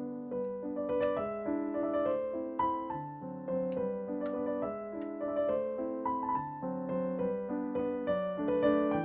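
Solo piano music playing a lively melody over chords, with the notes changing quickly and evenly.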